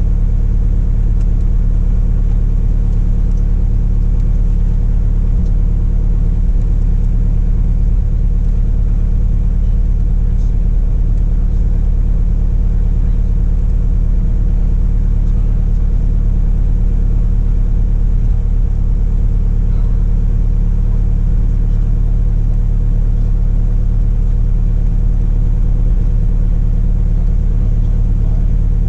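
Steady drone of a Cessna Cardinal RG's engine and propeller heard inside the cabin, an even, unchanging low hum.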